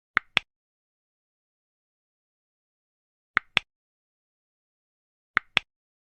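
Short, sharp double clicks, three pairs in all, each pair two clicks a fifth of a second apart, with the pairs two to three seconds apart and dead silence between them.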